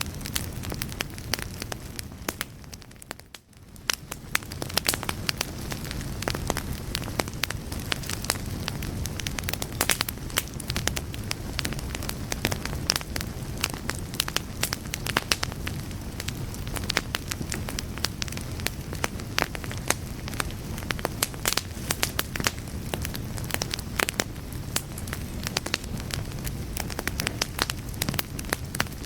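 Wood fire in a fireplace crackling, with many irregular sharp pops and snaps over a steady low rumble of flame. The sound fades out briefly about three and a half seconds in, then resumes.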